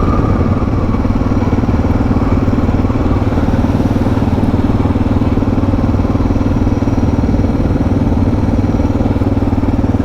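Suzuki DR650's single-cylinder engine running steadily as the bike rides along at an even speed.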